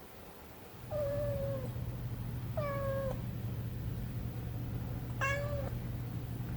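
A kitten meowing three times, short high calls that drop in pitch at the end, spaced a couple of seconds apart. A steady low hum sets in just before the first meow and runs underneath.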